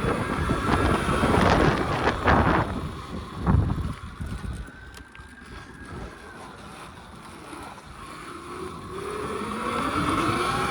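Wind buffeting the microphone with a thump about three and a half seconds in, then the thin whine of an electric pit bike's motor, rising in pitch near the end as the bike speeds up.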